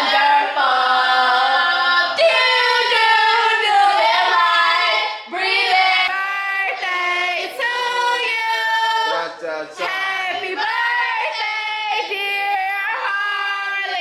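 High-pitched female singing on long, sliding notes, with no bass or beat underneath.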